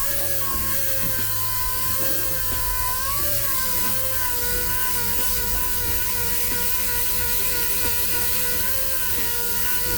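A power tool motor running steadily with a whine whose pitch dips and recovers every few seconds, over a rough hiss.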